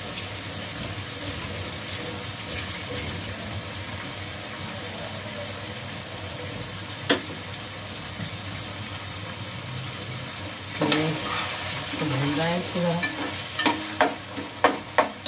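Meat, onions, tomatoes and green chillies sizzling as they fry in oil in a metal pot, the bhuna stage of browning the masala before the stock goes in. In the last few seconds a metal spoon stirs the pot, scraping and knocking sharply against it several times; there is also a single sharp click about halfway through.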